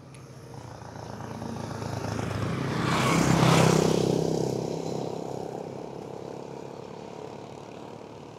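A motor vehicle passing by on the road: its engine and tyre noise grow louder, peak about three and a half seconds in, then fade away.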